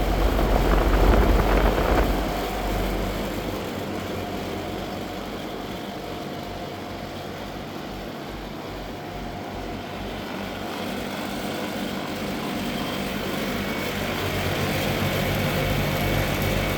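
2007 Daikin 7-ton heat pumps running in heating mode: a steady hum from the compressors and the whoosh of the outdoor fans. A heavier low rumble is heard for the first three seconds.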